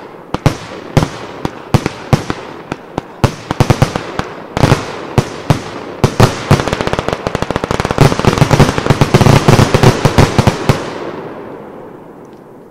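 A 144-shot consumer firework cake (Vulcan Doppel-D) firing: separate loud bangs about two a second at first, quickening after about four seconds into a rapid barrage. The barrage is loudest between about eight and eleven seconds in, during the cake's closing finale, then fades away.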